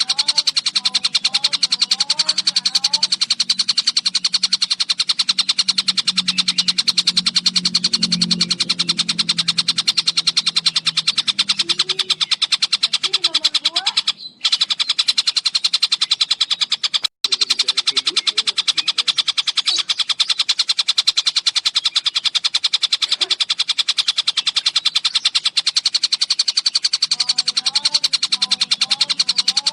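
Tengkek buto bird song: one long, very fast, high-pitched rattling trill of rapid notes, broken only by two brief gaps about halfway through.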